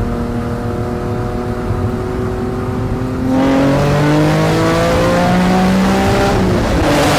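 Honda NSX's C30A 3.0-litre V6 accelerating. Its pitch climbs slowly at first, then it gets louder and climbs faster from about three seconds in. The pitch drops near the end, like a gear change.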